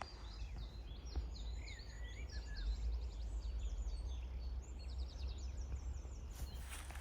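Small birds chirping: a run of short high chirps and quick trills that stops about six seconds in, over a steady low rumble.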